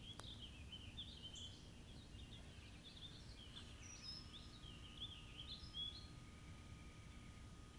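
A songbird singing a busy run of short chirps and warbled notes, faint, stopping a little before the end.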